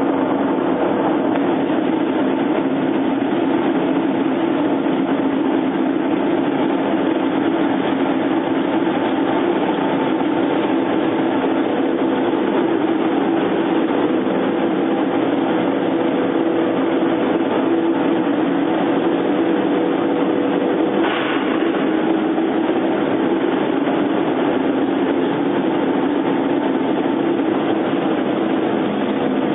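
Industrial microwave drying tunnel running: a steady mechanical hum with several constant tones, with one brief click about twenty-one seconds in.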